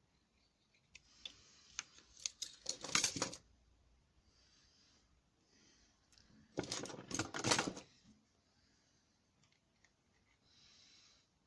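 Clicking and rattling of small carburettor parts and hand tools being handled during a carburettor clean-out, in two bursts of clatter a few seconds apart, then a faint short hiss near the end.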